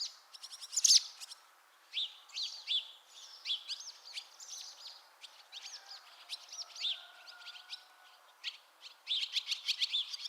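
Barn swallows twittering: a busy stream of short chirps and curving notes, breaking into a fast run of clicky notes near the end.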